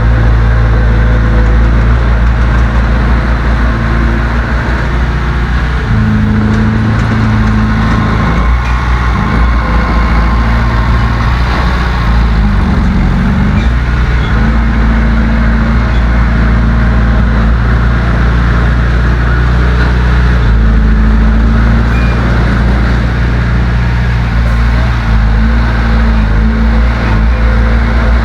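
Heavy diesel engine of earthmoving equipment running loud and continuous, its pitch shifting as the throttle and load change: a step up about six seconds in, a dip and rise around halfway, and another change about two-thirds of the way through.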